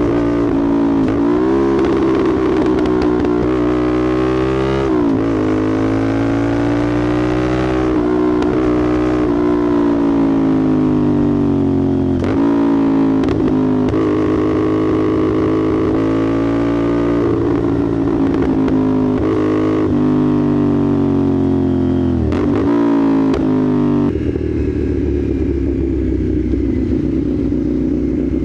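Motorcycle engine running through a slip-on aftermarket exhaust, its pitch repeatedly climbing and then dropping sharply as the revs rise and fall, settling into a steadier, lower note about four seconds before the end.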